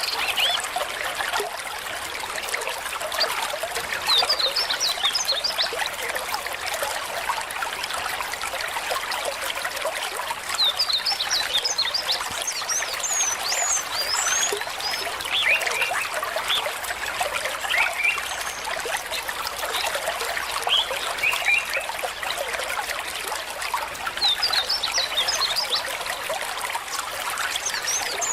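Shallow stream babbling and trickling over stones in a steady splashy rush. Brief bursts of high chirping calls come every few seconds.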